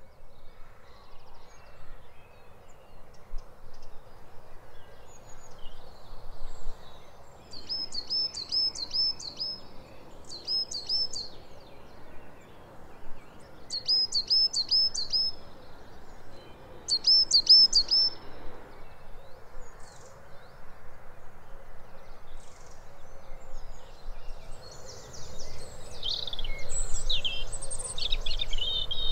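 Coal tit singing: a rapid, high-pitched, slurry "tisha tisha tisha", delivered as short bursts of the same repeated note pair, several times with pauses between. Near the end a different bird's more varied song of high notes begins.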